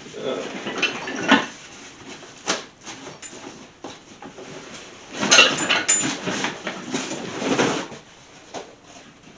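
A cardboard box being unpacked, with loose steel engine-stand parts clanking and scraping against each other. The knocks and rustling come in irregular bursts, busiest a little past the middle.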